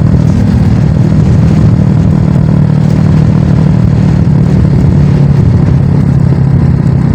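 Small motorcycle engine running steadily under way, at an even cruising pace.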